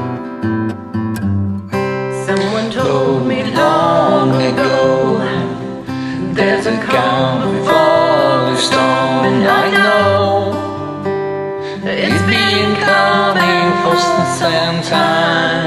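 Strummed acoustic guitar playing a song, with a voice singing over it from about two seconds in.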